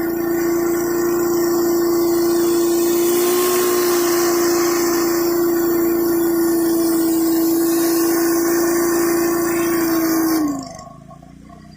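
A gas pressure washer runs under load, with a steady whine and the hiss of high-pressure water spraying. Near the end the spray cuts off and the whine slides down in pitch as the sound falls away.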